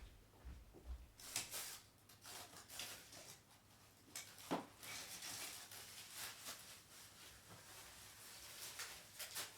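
Faint rustling and crinkling of packing material being handled, with a few light clicks and taps scattered through.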